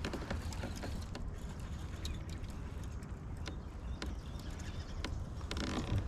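Baitcasting reel being cranked to retrieve a crankbait: scattered light clicks and ticks of the reel and small knocks against the kayak over a steady low rumble.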